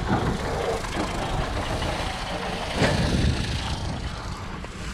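Six-cylinder Perkins diesel engine of a Fordson Major tractor running steadily, with one brief noise about three seconds in.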